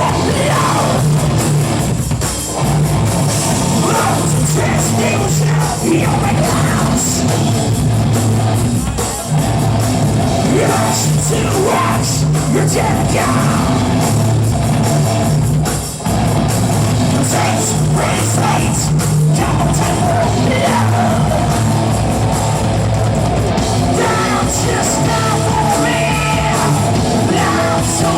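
Live hard rock band playing loud and distorted, with shouted singing over guitars, bass and drums.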